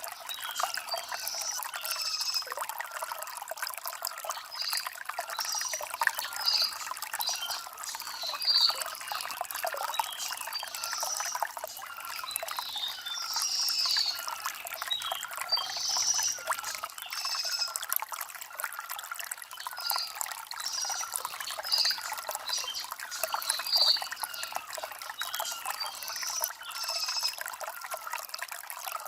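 Shallow stream trickling and gurgling over stones in a steady wash, with a songbird repeating short high chirps every second or so.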